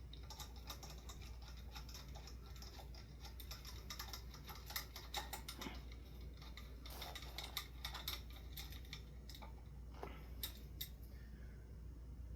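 Hand screwdriver turning ceiling-fan screws, making irregular light clicks and ticks. One screw spins in its hole without tightening.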